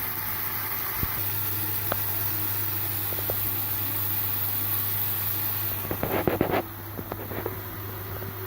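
Bacon-wrapped chicken breasts frying in oil in a pan, a steady hiss over a low hum, with a few light clicks. About six seconds in there is a short burst of clattering, like tongs or a utensil against the pan, after which the hiss drops lower.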